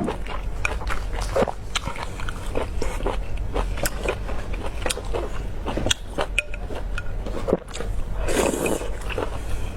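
Close-up mukbang eating sounds: a person biting and chewing food, with many short sharp clicks and smacks, and one longer noisy sound about eight and a half seconds in.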